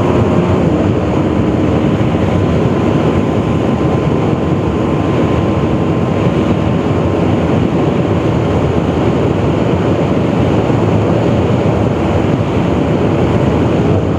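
TVS Apache RR310's single-cylinder engine running at steady high speed under heavy wind rush on the microphone, during a top-speed run.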